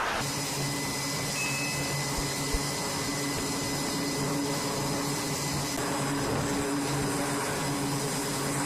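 Steady machinery drone with a low hum and a faint high whine; a brief higher tone sounds about a second and a half in.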